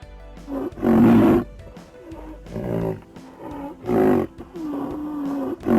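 An animal calling over and over in loud, pitched calls about a second apart, some bending in pitch, over background music.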